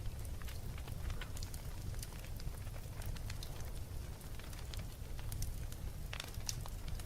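Wood fire burning in a fireplace: a steady low rumble of the flames with scattered sharp crackles and pops, a small cluster of louder pops a little after six seconds in.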